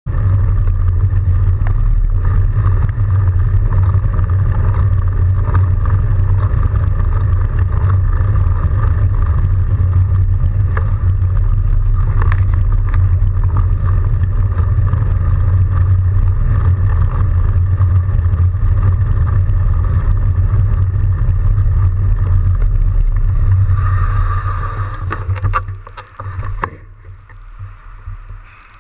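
Steady, loud low rumble of riding a fat bike through a snowstorm: wind buffeting the microphone along with the fat tyres rolling on snow. It falls away sharply about 25 seconds in.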